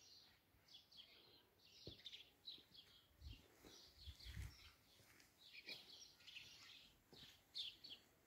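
Faint birds chirping, a steady scatter of short high calls, with a few soft low thumps about halfway through.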